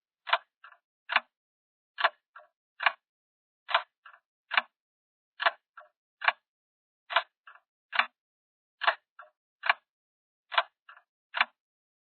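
Clock-like ticking sound effect: sharp ticks in a steady repeating pattern of a loud tick, a softer tick and another loud tick, about every second and three quarters.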